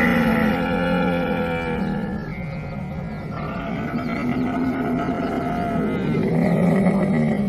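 Camel bellowing: long, drawn-out, guttural groaning calls with a deep rumble under them, swelling again before they end.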